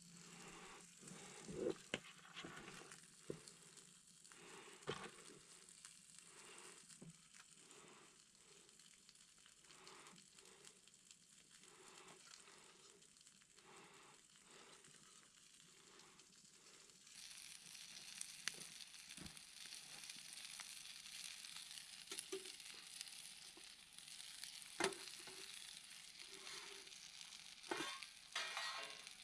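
Food sizzling as it fries over a campfire, a steady hiss with scattered sharp clicks and taps. The sizzle grows brighter and louder about seventeen seconds in.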